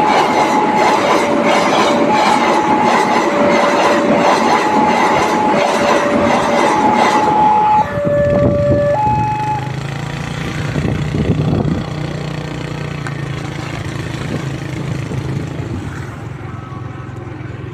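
A train running over a level crossing, its wheels clacking on the rail joints, while the crossing's warning signal sounds an alternating two-tone, high then low, about a second each. The train noise drops away about eight seconds in. The warning tones stop a couple of seconds later, leaving a steady low hum.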